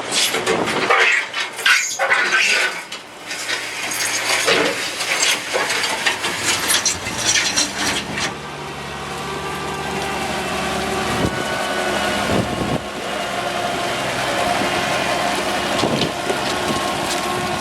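Irregular clattering and crunching for the first half, then a tractor engine running steadily from about eight seconds in.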